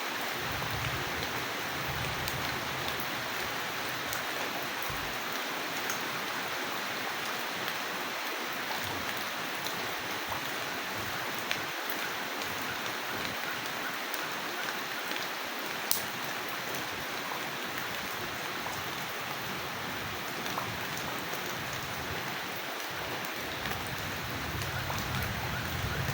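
Steady rain falling, an even rushing hiss with a few sharp drip ticks. A faint low rumble comes in near the end.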